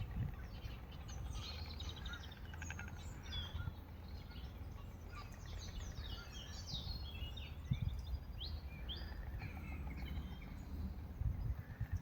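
Songbirds singing, with many quick high chirps and a brief rapid rattle about two to three seconds in, over a steady low rumble of wind on the microphone.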